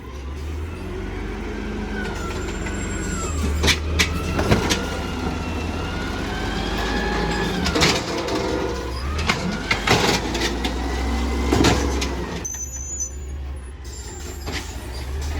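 Garbage truck engine running with a steady low rumble, a wavering high whine and a series of sharp clanks scattered throughout.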